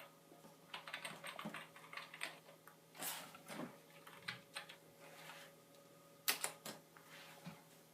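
Computer keyboard keys being typed on in short, irregular runs of soft clicks while a network password is entered.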